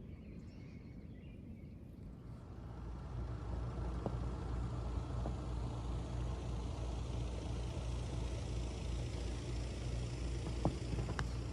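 Heat pump running: a steady low electric hum that swells in about two seconds in, with a faint thin whine above it and a couple of light ticks near the end.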